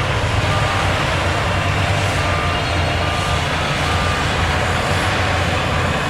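A heavy diesel earthmoving machine's engine running steadily while its reversing alarm gives a regular series of short beeps, about one and a half a second, meaning the machine is backing up.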